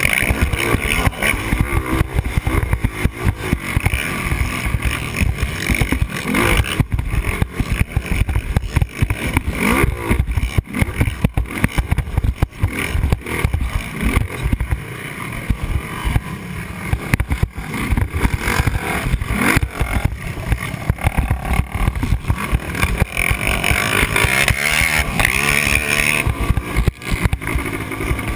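Yamaha Raptor 250 quad's single-cylinder four-stroke engine revving up and down repeatedly as the throttle is worked, heard up close from the rider.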